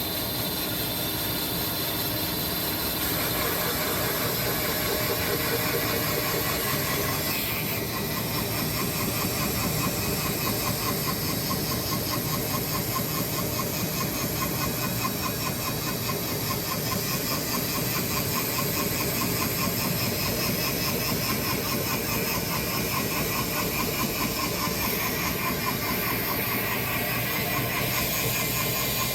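Sawmill running steadily, its engine and blade noise dense and continuous, with small changes in pitch and tone a few times as the mill works through a walnut log.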